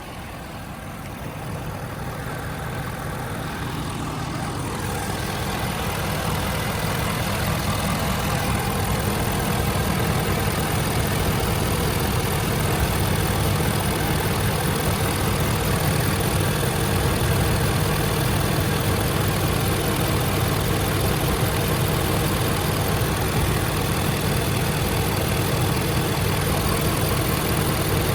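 Ford 6.7 L Power Stroke turbo-diesel V8 of a 2016 F-350 idling steadily with the hood up, growing louder over the first several seconds and then holding even.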